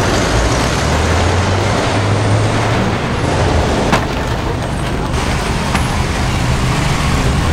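Demolition derby cars' engines running hard, a steady low hum under a dense wash of noise, with a sharp knock about four seconds in.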